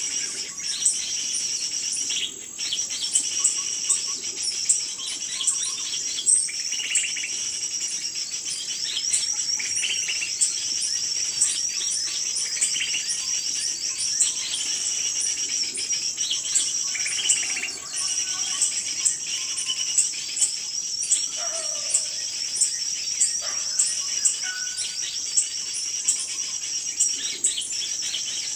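Small birds chirping and twittering rapidly and continuously in a high register, with sharper single calls standing out about once a second or more.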